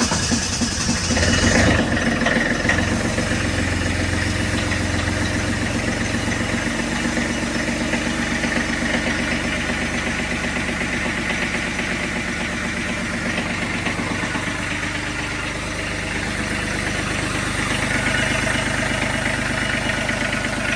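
Kubota B26 diesel engine cold-started at about −21 °C after glow-plug preheating. The starter cranks for about the first second and a half, the engine catches and runs, then settles into a steady, rhythmic cold idle.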